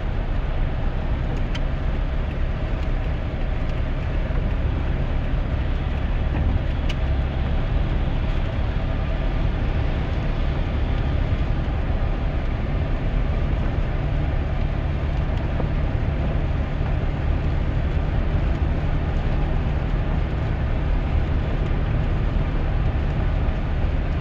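Steady low drone of a 2001 GMC Sierra pickup driving in the rain, heard from inside the cab, with a couple of faint clicks in the first few seconds.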